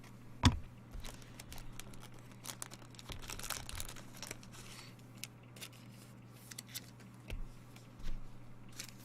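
Trading-card pack wrappers being torn open and crinkled, with cards handled in short rustles and clicks; a sharper knock about half a second in.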